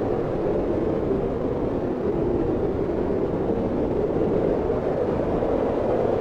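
Steady wind blowing: an even, rushing noise, strongest in the low-middle range, with a slight easing about two seconds in.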